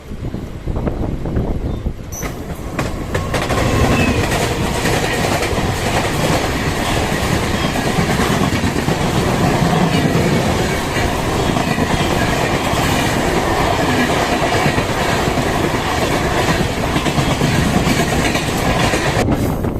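MEMU electric train running at speed, its wheels clattering over the rail joints. The noise builds over the first few seconds, then holds loud and steady.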